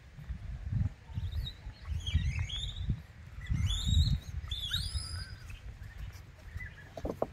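Birds chirping in short rising-and-falling calls, clustered in the middle seconds, over repeated low thumps and rustling. A brief rapid rattle comes right at the end.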